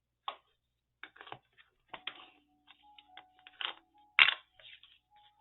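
Handling of paper and inking supplies on a craft table while a cardstock tab is inked: a string of irregular clicks, taps and paper rustles, with a sharper knock about four seconds in.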